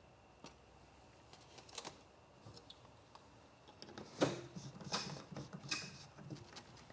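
Faint clicks and a few light knocks of paint cans and a mixing cup being handled while hardener is measured into the clear, the louder knocks coming about four to six seconds in.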